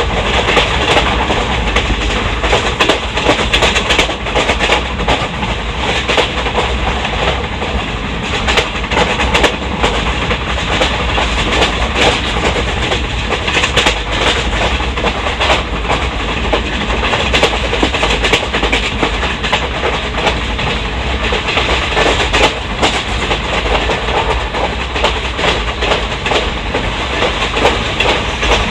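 Track noise heard from inside an ICF passenger coach running at speed: a steady rumble of wheels on rail with a busy run of clicks and knocks as the bogies pass over rail joints.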